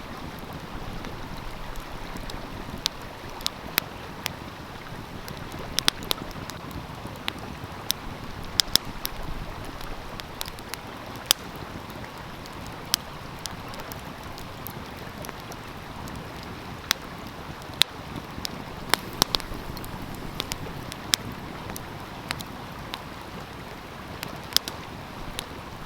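Wood fire crackling, with irregular sharp pops about once or twice a second, over the steady rush of a flowing stream.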